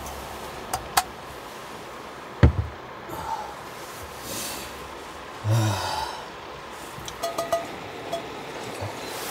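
Scattered clicks and light knocks of small objects being handled, with one louder thump about two and a half seconds in and a short breathy sigh-like sound midway.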